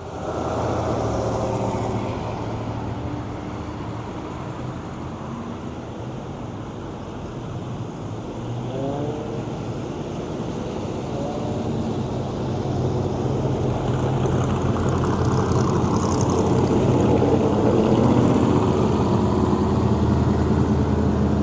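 Car engine running steadily, growing louder over the second half, with a few short rising tones near the middle.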